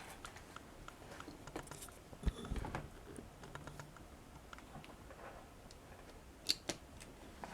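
Faint clicks and light rattles of a Britains Ford 5000 toy tractor being handled and its rear lift worked, with a louder bump about two seconds in and two sharper clicks near the end.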